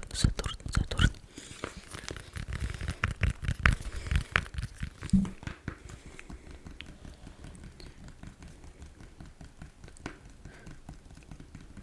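Fast fingernail tapping and scratching close to the microphone, a dense run of quick clicks and scrapes. It is louder for the first five seconds or so, then turns into softer, rapid light ticks.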